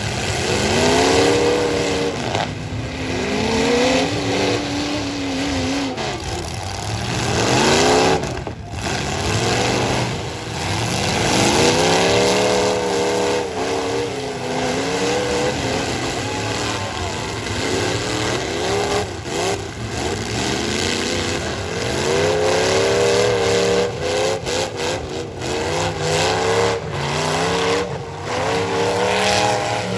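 Full-size stock pickup truck engines revving hard, over and over, their pitch climbing and falling with each push during a demolition derby heat.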